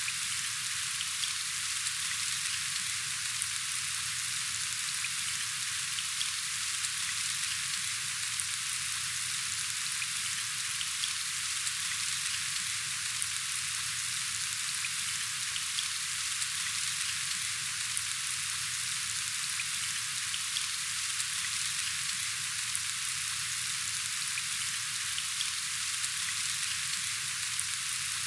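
Steady rain falling, an even hiss with a faint patter of individual drops.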